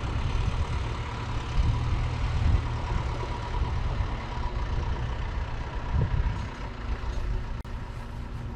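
A heavy vehicle's engine runs steadily at a low rumble, swelling a little now and then.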